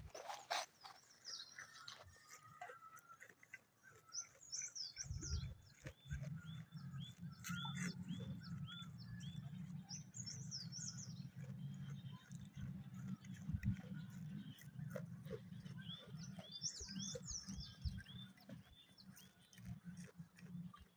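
Birds chirping in runs of short, repeated notes, over a steady low hum that starts about five seconds in.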